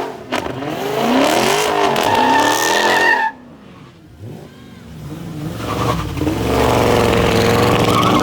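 A car engine revving hard, its pitch sweeping up and down; it drops off suddenly about three seconds in, then the revs build again and hold loud near the end.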